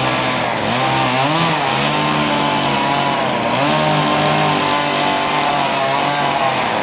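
Stihl 045 two-stroke chainsaw running at high revs in a cut through a large oak trunk, its engine note dipping and recovering several times as the chain loads up in the wood.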